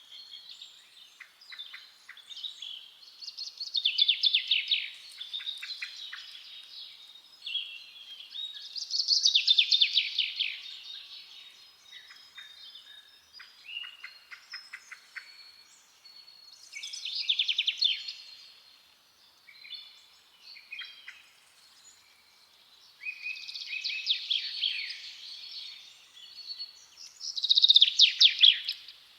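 Songbirds singing in a forest: several loud phrases of fast, rapid notes every few seconds, with quieter chirps between them.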